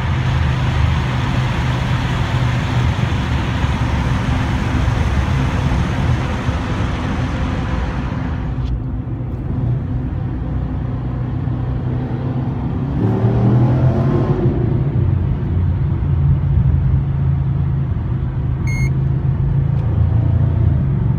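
HSV Senator's V8 engine and road noise heard from inside the cabin while driving through a tunnel. Past the middle the hiss drops away, then the engine note rises and grows louder as the car picks up speed, and a short electronic beep sounds near the end.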